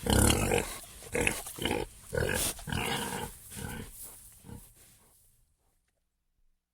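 An animal giving a rapid series of about seven short calls, dying away about five seconds in.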